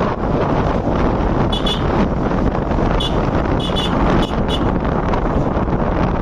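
Wind buffeting the microphone over the running of a motorcycle on the move, a loud steady rush. A few short high beeps or chirps, mostly in pairs, come between about one and a half and four and a half seconds in.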